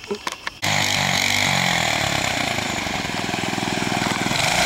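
A few short clicks, then a small mini bike engine comes in suddenly about half a second in and runs steadily.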